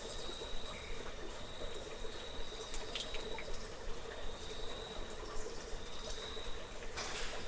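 Steady high insect trill, like a cricket, continuing throughout, over a low steady hum of ambience. Scattered short clicks sound here and there, with a louder brief rustle or splash near the end.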